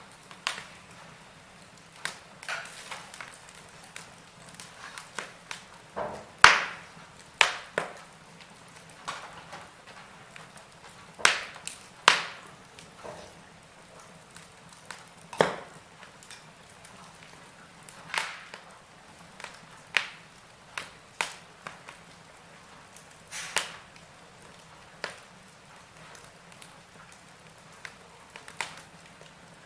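Wood fire in a fireplace crackling: irregular sharp pops and snaps, a few much louder than the rest, over a faint steady hiss.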